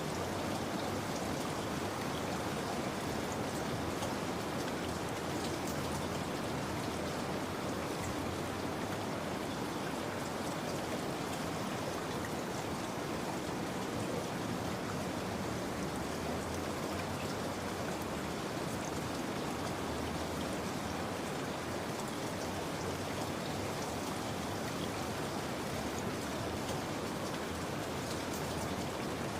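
Steady rain: an even hiss of falling rain with scattered drops ticking, unchanging throughout.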